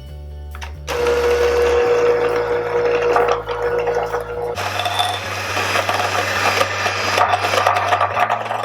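Electric hand mixer beating softened butter and powdered sugar in a bowl, starting about a second in. Its steady whine shifts in tone about halfway through.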